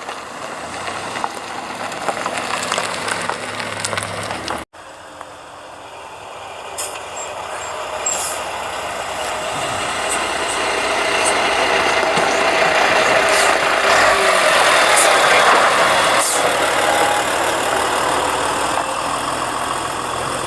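Classic cars driving slowly past, with engine and tyre noise that grows louder through the middle and stays loud. The sound cuts out briefly about five seconds in.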